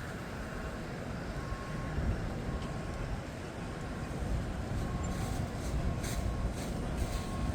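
Steady low rumble of distant engines, with faint short beeps repeating now and then and a few light clicks near the end.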